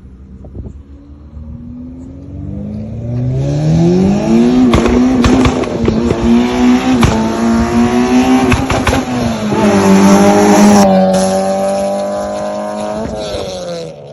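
Modified 2300 cc engine of a 1993 Honda Civic Ferio revving up and held at high revs for several seconds, with a few sharp cracks. It eases slightly, holds, then drops back near the end.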